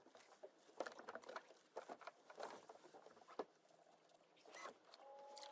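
Faint clatter and rustling of gear being handled, with a quick series of short high-pitched electronic beeps a little before four seconds in and one more beep near five seconds.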